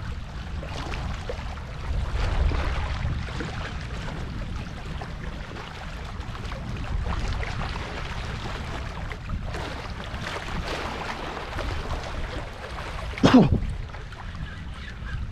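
Wind buffeting the microphone in gusts over a steady hiss of rain, with one short, sharp knock near the end.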